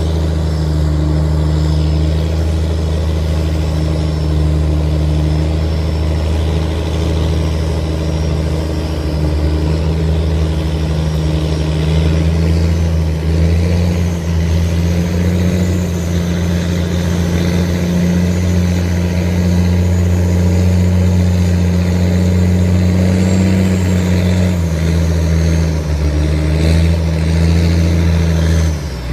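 A tugboat's diesel engine running hard under throttle, a deep steady drone. Its pitch lifts a little through the middle and drops back about three-quarters of the way through.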